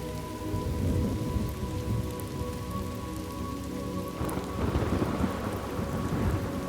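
Steady rain with rolling thunder: a low rumble about a second in, then a longer, bigger roll from about four seconds in.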